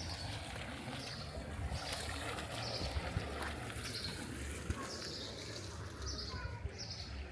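Water trickling steadily, with a short high call repeating every half second to a second over it.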